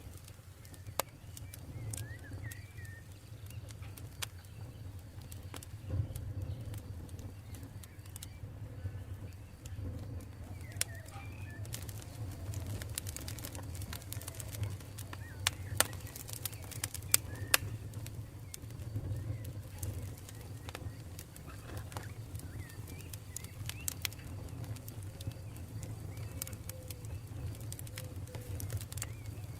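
Campfire burning with a steady low rumble and frequent sharp crackles and pops, a few louder snaps a little past the middle. Faint bird calls come and go behind it.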